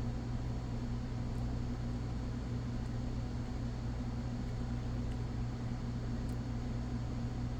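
Steady low hum and hiss of background room noise, with a few faint small ticks.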